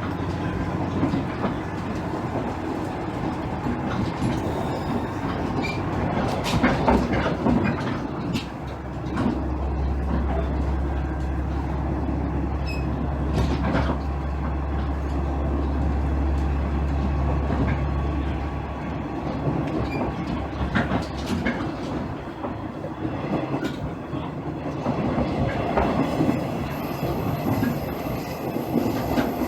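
Interior running sound of a JR East KiHa 110-series diesel railcar: steady rumble of the engine and wheels, with scattered clicks as the wheels cross rail joints. A deep engine hum comes in about nine seconds in and stops about ten seconds later.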